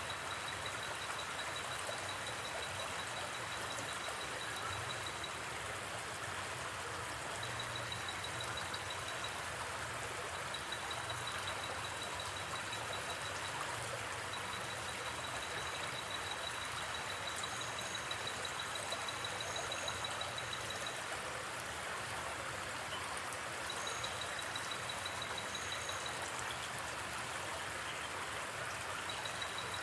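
Gently flowing river, a steady rushing of water. Over it, a high, even trill starts and stops several times, with a few short higher chirps in the second half.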